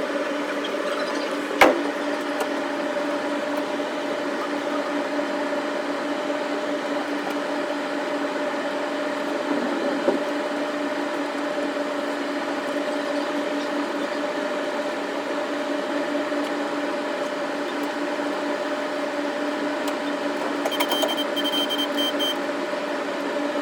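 Running noise of a JR East Shonan-Shinjuku Line electric train heard from the front of the cab area: a steady hum with a constant two-note drone under a noisy rush. A sharp click comes about a second and a half in, and a short dotted high beeping near the end.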